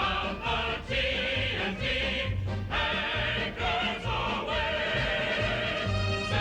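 A mixed choir singing with instrumental accompaniment.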